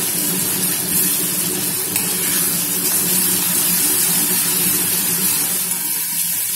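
Tomato and tamarind paste sizzling loudly in hot sesame oil in an aluminium kadai as it is stirred with a ladle: a steady spitting hiss. A steady low hum runs underneath.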